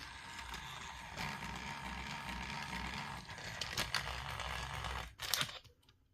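Battery-powered motorized toy train engine running along plastic track: a steady motor whir with the wheels rattling and scraping. It cuts out about five seconds in with a couple of clicks.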